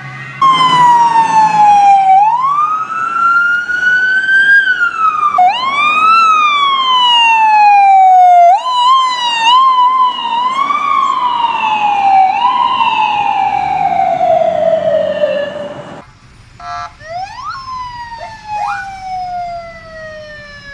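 Emergency-vehicle siren wailing loudly, its pitch sliding down and back up in long sweeps, then cutting off about 16 seconds in. After it, a fainter siren gives a few quick rising chirps and a long falling tone.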